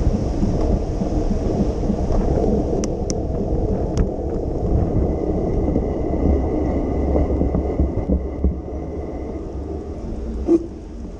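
Steady low rumble of wind buffeting the microphone on a moving bicycle in the rain, with a few sharp clicks. The rumble eases slightly near the end.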